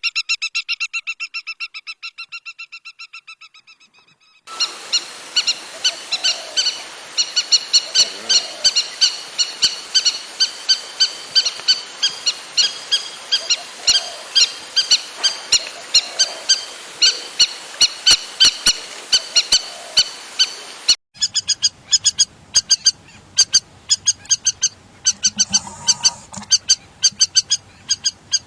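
Lapwing calling, rapid series of short, sharp, high-pitched notes repeated several times a second. There is a short gap about four seconds in, and an abrupt cut about three-quarters of the way through to another stretch of the same calls.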